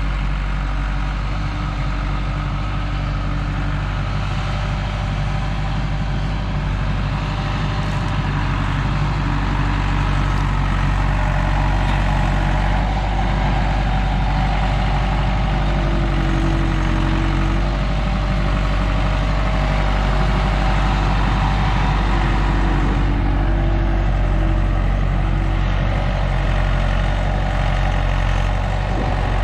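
A heavy engine running steadily with a continuous low hum.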